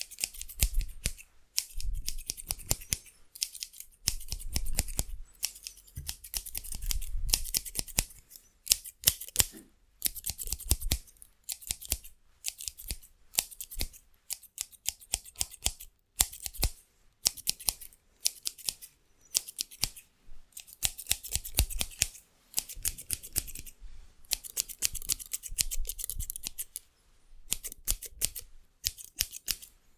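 Hair-cutting scissors snipping fast and hard close to the microphone, in quick bursts of rapid crisp clicks with short pauses between them.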